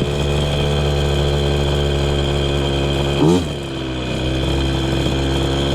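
KTM 50 Mini Adventure's small single-cylinder two-stroke engine idling steadily, with one quick throttle blip about three seconds in. Its air screw is set to three turns out, a leaner mixture that makes it idle higher.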